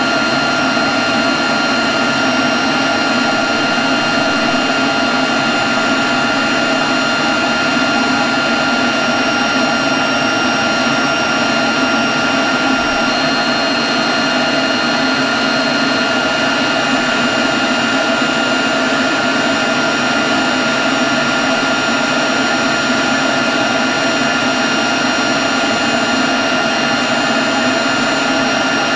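Leaf blower running steadily at constant speed: a rush of air with a high, steady fan whine over it.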